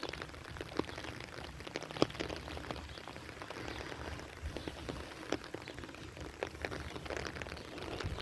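Rain falling, with irregular drop hits scattered through a steady hiss and one sharper tap about two seconds in.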